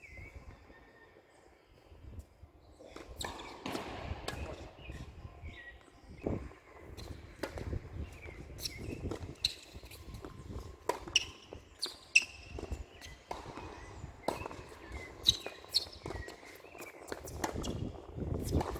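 Tennis play: footsteps and shoe squeaks on the court with a scatter of sharp knocks from ball hits and bounces, starting about three seconds in.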